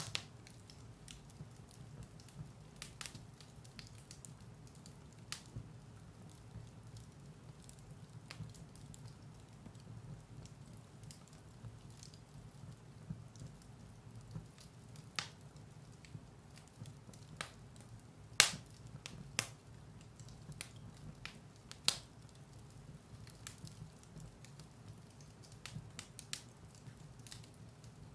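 Firewood burning in a fireplace, with irregular sharp crackles and pops over a steady low rumble of the fire. The loudest pops come about two thirds of the way through.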